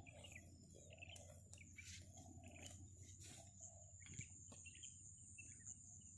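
Near silence: faint outdoor ambience with scattered small bird chirps and a steady high-pitched whine.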